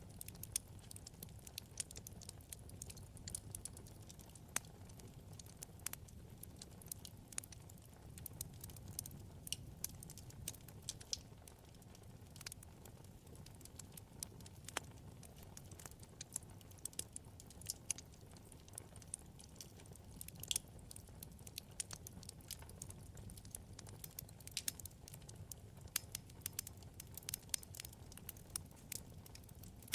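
Wood fire in a fireplace crackling: frequent sharp, irregular pops and snaps over a low steady rumble of burning.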